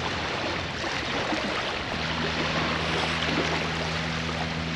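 Steady rushing of wind and water, with a motor's low, even hum starting abruptly about two seconds in and holding steady.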